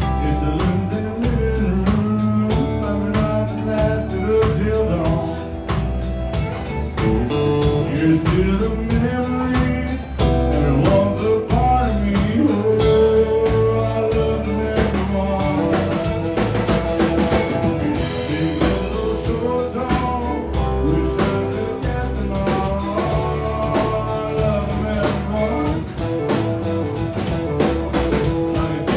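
Live country band playing an instrumental break of the song, with guitar and drum kit keeping a steady beat.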